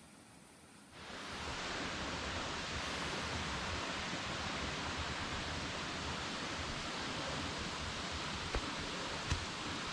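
Waterfall rushing: a steady, even noise of falling water that comes in suddenly about a second in. Two faint clicks sound near the end.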